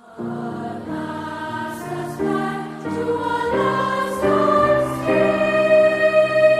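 A choir singing a slow series of held chords, the voices rising to a long sustained high note about five seconds in.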